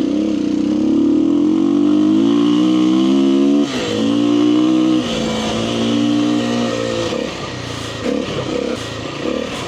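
Kawasaki KLX300R single-cylinder four-stroke dirt bike engine pulling hard, its pitch climbing for about three and a half seconds, then dipping sharply as if at a gear change and pulling again. It eases off to a lower, uneven note for the last couple of seconds.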